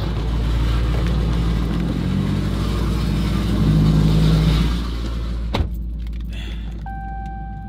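A car engine running with a deep, loud rumble, revving up briefly about four seconds in. A sharp click comes about five and a half seconds in; after it the engine hum is quieter, with a steady high tone near the end.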